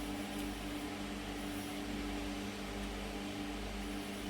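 Small electric fans running with a steady hum.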